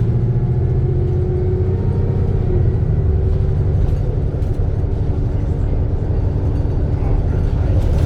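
Alexander Dennis Trident II Enviro 400 double-decker bus running steadily: a continuous low engine drone with faint steady whining tones above it.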